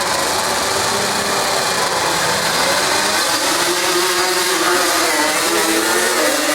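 Dirt drag racing vehicle engines running, one engine's pitch rising and then falling again about halfway through.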